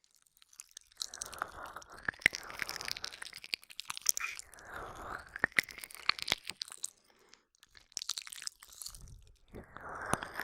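ASMR ear-licking mouth sounds close up on a binaural microphone: wet licks, smacks and tongue clicks in several bouts with short pauses between them.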